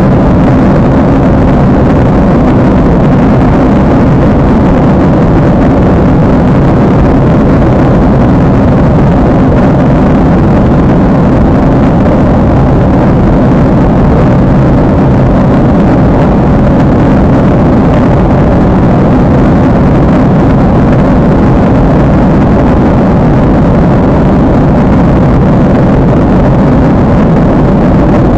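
Steady, unbroken roar of an airliner's jet engines and rushing air, heard inside the cabin in flight.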